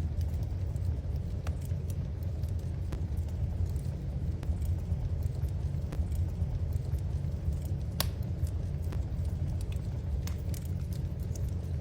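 Wood fire in a fireplace crackling: scattered sharp pops and ticks over a steady low rumble, with the loudest pop about eight seconds in.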